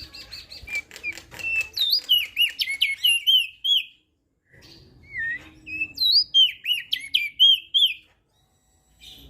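Crested white-eye (opior jambul) singing two phrases of rapid, slurred whistled notes, each about three and a half seconds long, with a short break between them.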